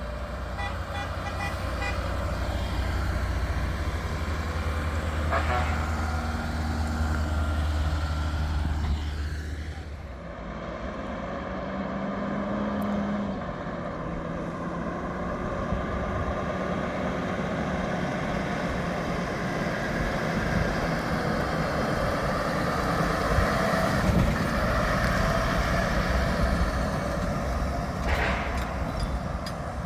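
Heavy trucks driving past one after another, their diesel engines running, with a deep engine rumble for about the first ten seconds and then lighter traffic noise. There are a few horn toots along the way.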